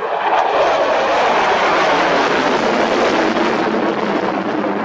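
Jet noise of a twin-engine F-15 fighter flying past: a loud, rushing roar that swells about half a second in and stays strong.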